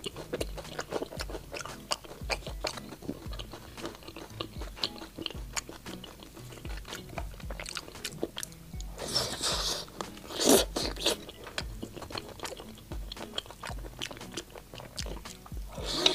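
Close-up crunching and chewing of crispy fried chicken, many small crackles, with louder crunchy bites about nine seconds in and again near the end. Background music runs underneath.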